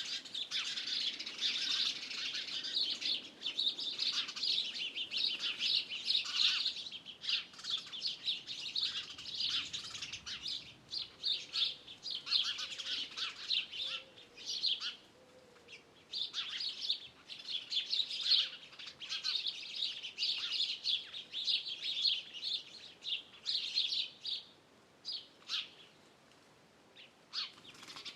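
A chorus of small songbirds chirping and twittering rapidly and densely, with a short lull in the middle; the chatter thins to scattered single chirps near the end.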